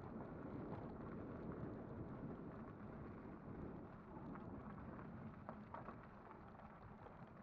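Riding noise from an e-bike on the move: wind buffeting the microphone over a low tyre rumble, with a few faint clicks and knocks. The noise eases off slightly toward the end.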